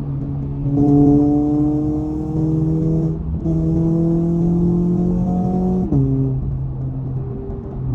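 Toyota 86's flat-four engine accelerating: the pitch climbs steadily, breaks for a gear change about three seconds in, climbs again, then drops back to a low steady note near six seconds as the throttle is eased off.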